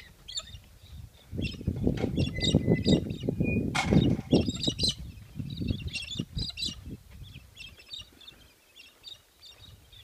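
Small birds chirping and calling repeatedly in short high bursts, with a couple of brief whistled notes early on. Under them a louder low rumbling noise comes and goes through the first half or so, with a sharp knock about four seconds in.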